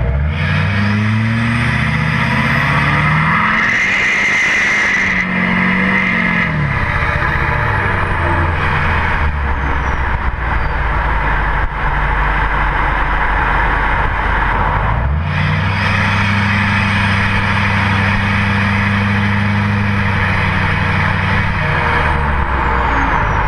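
2008 LMM Duramax V8 turbodiesel with its cat, DPF and muffler deleted, running through a 4-inch straight pipe dumped over the rear axle. It accelerates for a few seconds, eases off, then pulls again about fifteen seconds in and lets off near the end, over steady wind and road noise.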